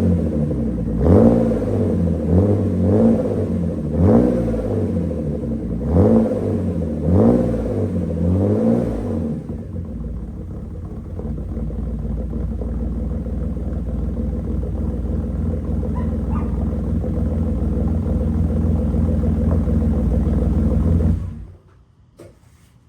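1988 Mercedes-Benz 300CE's M103 straight-six running through an exhaust with the middle and rear mufflers deleted and the resonator kept. It is blipped in a string of quick revs, settles to a steady idle about nine seconds in, and cuts off near the end.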